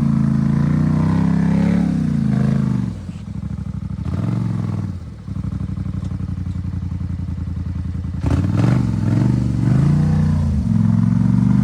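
Off-road vehicle engine revving hard, then dropping to a lower steady run about three seconds in, and revving up again after about eight seconds, with a brief clatter as it picks up.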